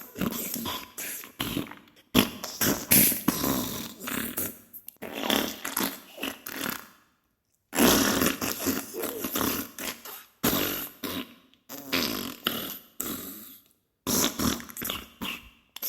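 Diarrhea sound effect: a string of sputtering fart bursts, one after another, with short breaks between them and a full pause about seven seconds in.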